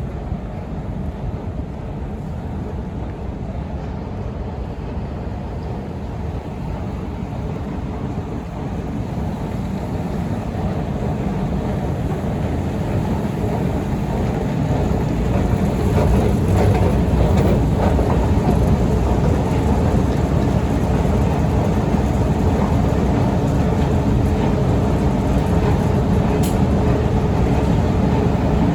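Steady low mechanical rumble of metro equipment, growing louder over several seconds about midway and then holding steady.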